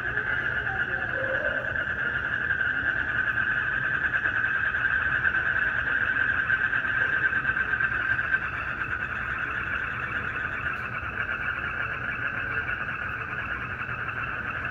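Night chorus of crickets and frogs: a dense, steady high trill with a few lower calls in the first second or so, over a low rumble.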